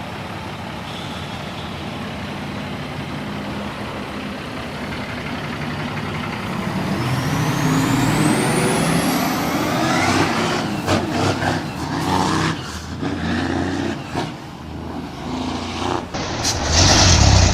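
Heavy truck engine working, growing louder about halfway through, with a thin rising whistle and then a run of knocks and clatter in the second half.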